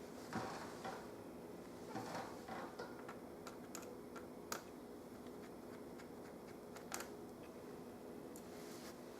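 Faint scattered clicks and short scrapes of a small screwdriver turning out screws from a laptop's display frame, over a faint steady hum.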